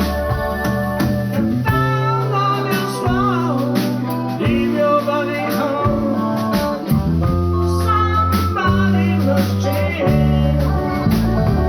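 Live blues band playing: electric guitar, bass, drums and keyboard, with bending lead guitar lines.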